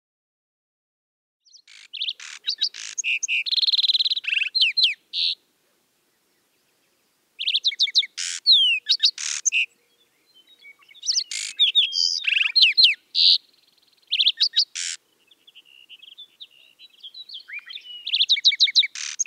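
A songbird singing in phrases of rapid chirps, trills and quick swooping notes, each phrase one to several seconds long with short silent gaps between them.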